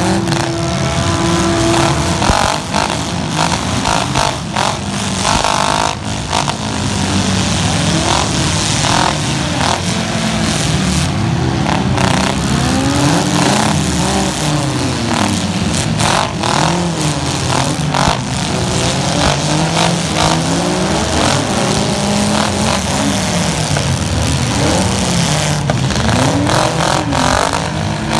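Demolition derby cars' engines revving up and down over and over, several at once, as the cars shove and ram one another, with scattered sharp bangs of car bodies hitting.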